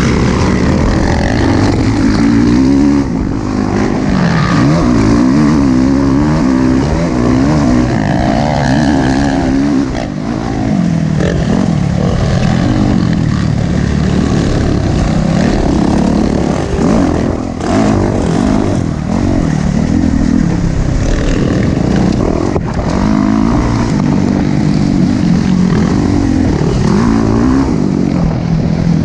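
Motocross dirt bike engines running hard, their pitch rising and falling every second or two as they rev up and shift or back off, with more than one engine heard at times.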